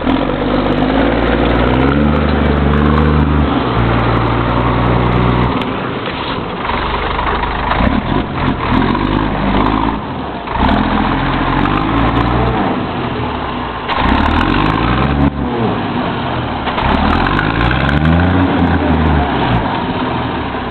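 Tandem-drive Scania truck's diesel engine revving up and down over and over under load as its drive wheels spin, failing to get grip.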